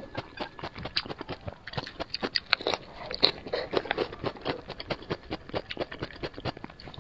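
A person chewing a mouthful of blistered green pepper, close to a clip-on microphone: many quick, irregular mouth clicks and crunches, several a second.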